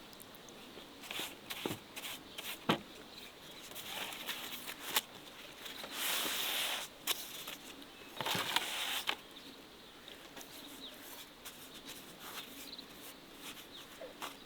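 Scattered light clicks and knocks, with two short bursts of hiss or scraping, each about a second long, a little past the middle.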